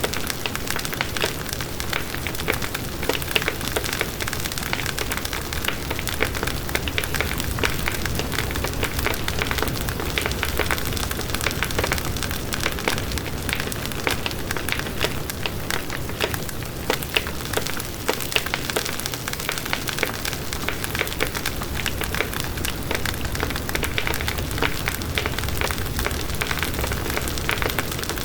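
Campfire burning, its wood crackling and popping in a dense, steady stream of small clicks.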